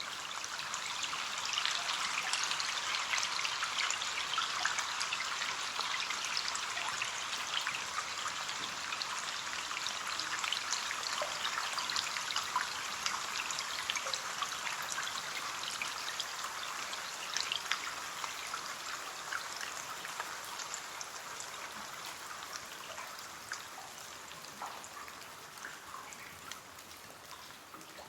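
Rain falling on window glass: a steady hiss of dense small drop ticks that swells over the first couple of seconds and slowly thins and fades over the last third.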